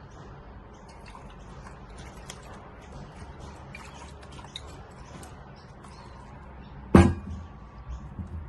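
Small clicks and taps of objects being handled, then, about seven seconds in, one sharp knock followed by a brief ringing tone.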